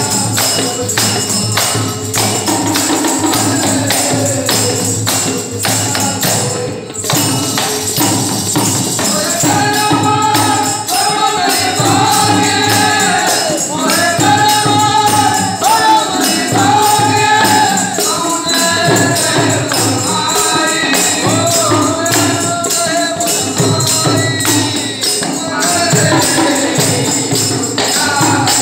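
Ektari bhajan devotional music: a steady rhythmic beat of jingling hand percussion over a held one-string ektari drone, with voices singing the melody from about nine seconds in until near the end.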